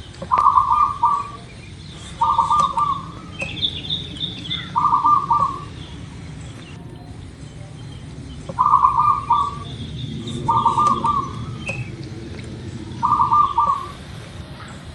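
Zebra dove cooing: six short, rapidly pulsed coo phrases, each under a second, spaced a couple of seconds apart. A few thin, higher chirps from another bird come in about four seconds in.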